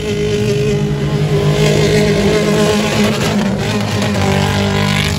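Stock cars' engines running hard as they drive along a dirt track, one passing close by at high revs.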